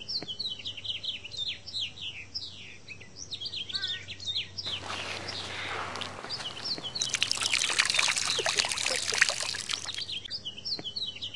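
Small birds calling with short, quickly falling chirps, several a second. From about five seconds in, running water rises over them with a crackling, trickling patter that fades near ten seconds.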